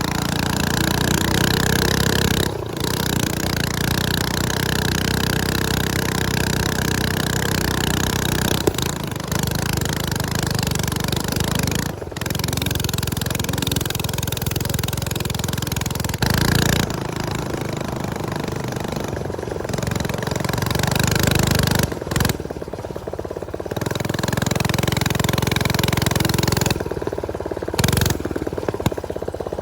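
Small motorcycle engine running under way, its speed rising and falling, with a haze of wind noise on the microphone. The sound dips briefly several times as the throttle comes off.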